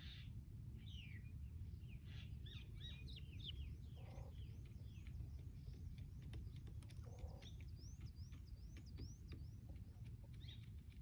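Small birds chirping: many short, high, falling chirps, with a quick run of about a dozen repeated chirps in the middle, over a steady low rumble.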